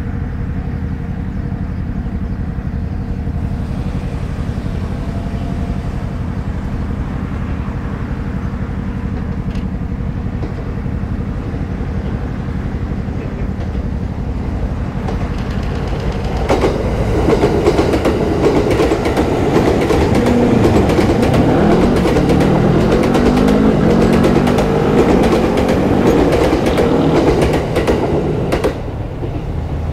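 Electric train on the rails: a steady rumble, then from about halfway it grows louder with a rapid clatter of wheels over the rails and a whine that glides up and down in pitch, dropping away shortly before the end.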